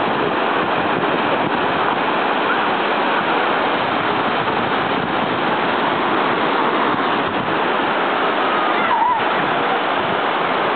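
Steady rush of ocean surf washing onto the beach, with a faint child's voice about nine seconds in.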